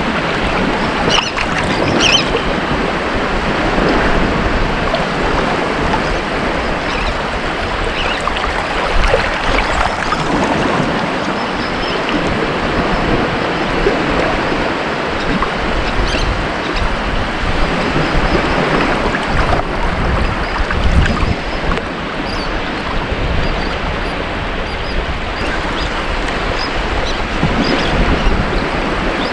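Ocean waves breaking and washing on a beach, a continuous surf wash that swells gently every few seconds, with some wind on the microphone.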